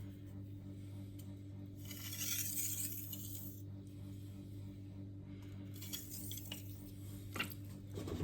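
Faint scrape of a steel knife blade drawn across a whetstone about two seconds in, then a few light metallic clinks near the end, over a steady low hum.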